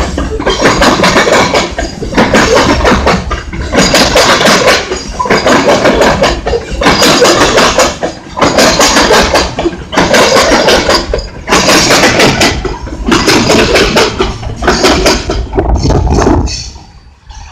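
Freight train of covered hopper cars passing close by. The wheels clatter and bang in regular bursts about every second or so, and the sound drops away near the end.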